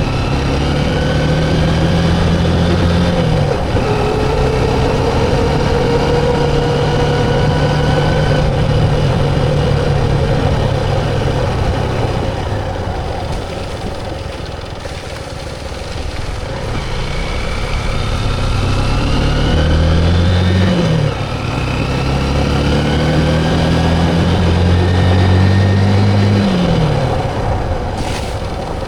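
Motorcycle engine running on the road, its pitch climbing as it accelerates and dropping at each gear change, with an easing-off in the middle before it builds again.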